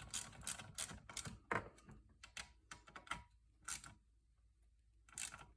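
Irregular metallic clicks and taps of a spanner and small engine parts being worked by hand, as the mounting nuts of a replacement lawn-edger carburetor are done up. A quick run of clicks in the first two seconds, then a few spaced ones, the last about five seconds in.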